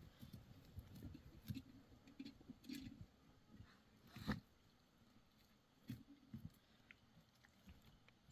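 Quiet, scattered knocks and rustles, with one sharper knock about four seconds in and another near six seconds.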